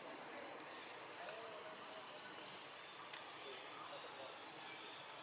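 Faint outdoor ambience: a steady hiss with a short, high rising chirp repeated about once a second, and a single sharp click about three seconds in.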